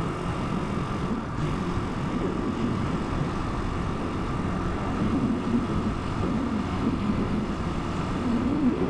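Italika 250 motorcycle engine running under way, its pitch wavering a little up and down, with rumbling wind noise on the microphone.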